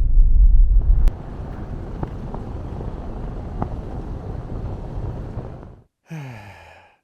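A loud low rumble cuts off sharply about a second in, giving way to a fainter steady outdoor noise with a few clicks that fades out. Near the end a man's voice gives a short falling groan or sigh.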